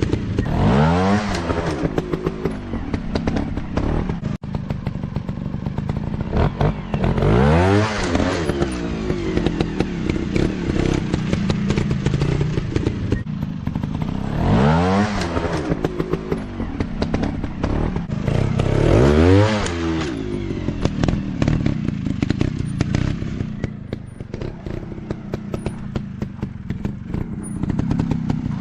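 Off-road dirt bike engine running, with the throttle blipped hard four times so the pitch sweeps sharply up each time, over frequent clattering knocks.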